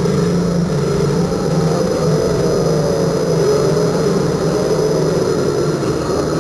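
Engine of a giant monster motorcycle running: a steady, loud, deep drone whose pitch rises and falls slightly.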